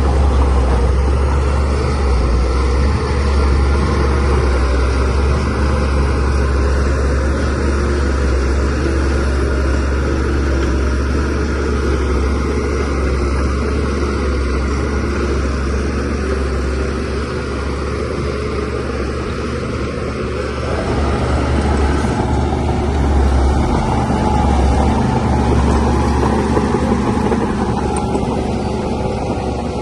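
DH17C3PRO bulldozer's diesel engine running under load while pushing soil, a steady low drone that swells louder near the start and again after the twenty-second mark and eases in between.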